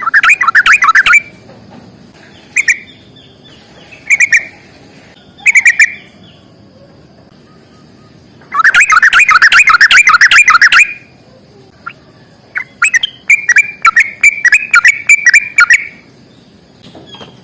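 Sooty-headed bulbul (trucukan) singing loud bursts of rapid, bubbling notes, short phrases at first, then a long dense outburst in the middle and a run of quick repeated notes near the end.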